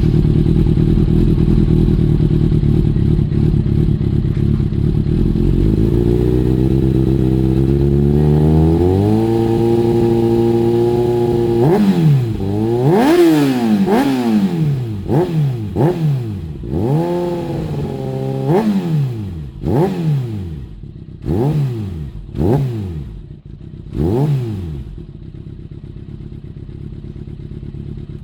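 Kawasaki ZX-6R inline-four engine running through an M4 GP stainless slip-on exhaust. It idles steadily, then the revs climb gradually and hold, then about ten quick throttle blips rise and fall sharply before it settles back to idle.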